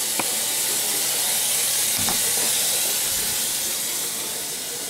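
Steady hissing noise, strongest in the highs, with a couple of faint ticks; it eases off slightly near the end.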